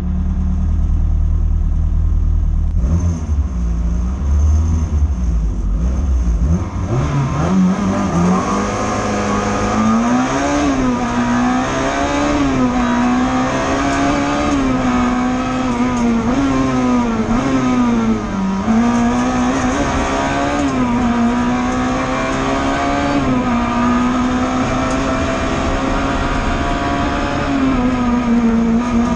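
Mk1 Suzuki Swift GTi's twin-cam four-cylinder engine heard from inside the cabin: a low rumble for the first several seconds, then the car launches and the engine revs hard, its pitch climbing and dipping again and again through gear changes and lifts as it is driven flat out.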